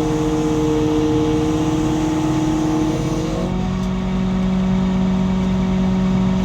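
A 200-ton lattice boom crane's engine and hydraulics run steadily while the concrete bucket is lowered on the cable. The steady whine steps down in pitch about three and a half seconds in.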